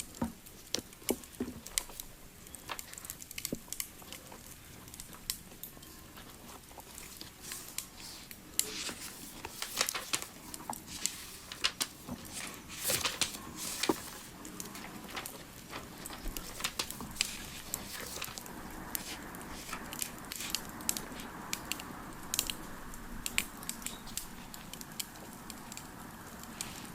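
Wood fire crackling: irregular snaps and pops, with a soft steady hiss growing stronger in the last third.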